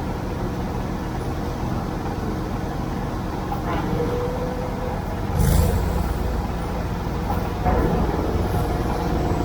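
Tractor engine running steadily under way, a low drone. A sudden louder burst of noise comes about five and a half seconds in, and the engine gets louder again near the eight-second mark.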